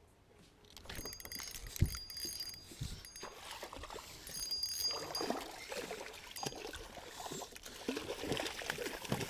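Water splashing and lapping around a fishing kayak, with irregular clicks and light metallic rattling of fishing gear, starting after a quiet first second.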